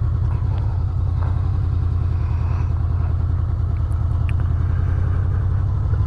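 Honda VFR800's V4 engine running steadily with a deep, evenly pulsing note.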